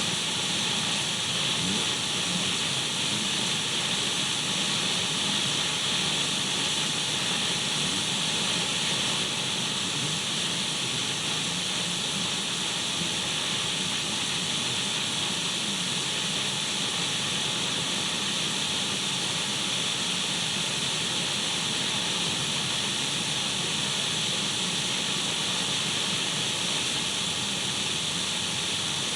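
Radio static: a steady, even hiss, brightest in the upper-middle range, with a few faint steady tones running through it.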